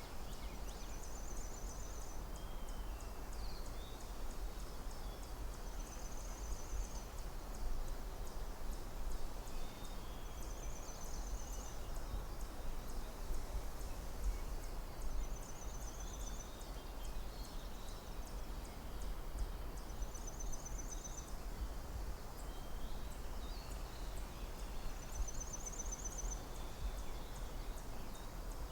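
Forest ambience: a steady low rumble and hiss, with a short, high, rapid trill that repeats about every five seconds, six times in all, and faint scattered bird chirps.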